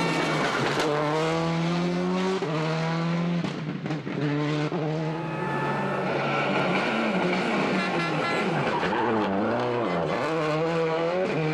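Rally car engine revving hard through the gears: the pitch climbs and drops back sharply at each upshift. About two-thirds of the way in, the revs waver up and down as the driver lifts off and gets back on the throttle.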